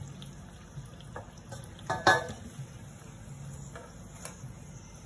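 Luchi frying in hot oil in a steel kadhai, a faint steady sizzle with small crackles. About two seconds in comes one sharp metal clank of a utensil against steel.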